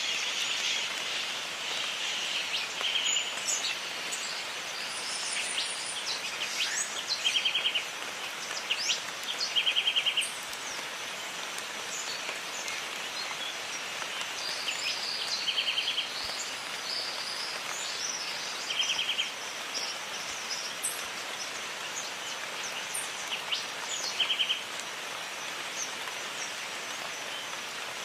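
Jungle ambience: steady rain hiss with birds calling over it, including a short, fast trill repeated every few seconds and scattered chirps and whistles.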